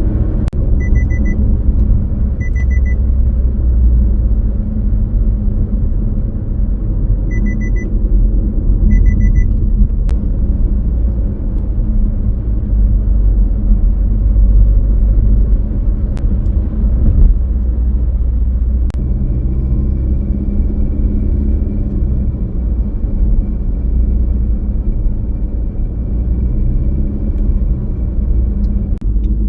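Car driving along a road: a steady low rumble of engine and tyre noise. Four short high beeps come in the first ten seconds, and a faint steady high whine runs through the second half.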